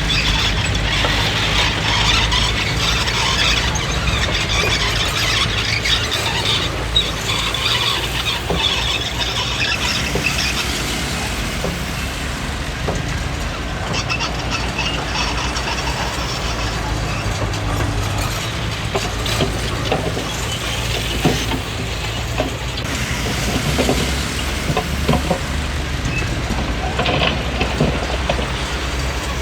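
Komatsu D20P crawler bulldozer at work: its diesel engine runs steadily while the steel tracks squeal, with scattered clanks and knocks.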